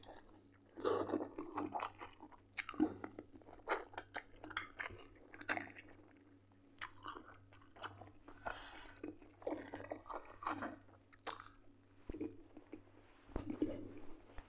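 A man chewing roasted chicken legs close to the microphone, with irregular wet mouth clicks and bites, and sucking grease off his fingers.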